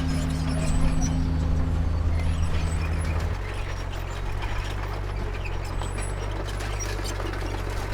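Heavy diesel engine of earthmoving machinery running hard. About three seconds in its revs drop to a lower, quieter note, with scattered metallic clicks throughout.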